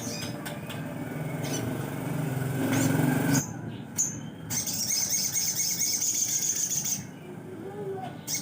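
Sogon songbird calling: scattered sharp chirps, then a fast, high trill of rapidly repeated notes lasting about two seconds past the middle.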